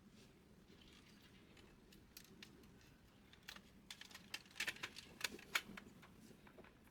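Light, irregular clicks and taps of plastic printer parts being handled, growing busier about halfway through.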